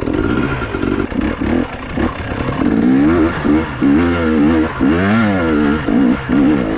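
KTM two-stroke enduro motorcycle engine revving up and down again and again as the throttle is opened and closed.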